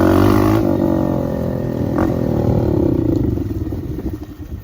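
Dirt bike engine coming off the throttle, its pitch and loudness falling steadily as the bike slows, with a short click about two seconds in.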